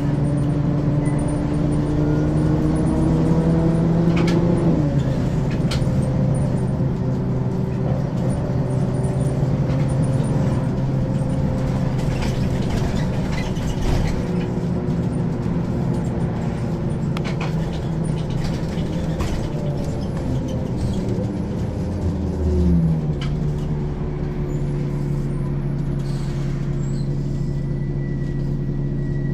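Ikarus 435 bus's diesel engine and ZF automatic gearbox under way. The engine's pitch climbs for about four seconds, then drops sharply at a gear change, followed by a long stretch of driving noise. About three-quarters of the way through, the pitch shifts again and settles into a steady drone.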